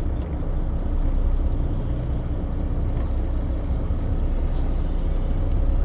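Semi truck under way: a steady low rumble of engine and road noise, with faint short hisses about three and four and a half seconds in.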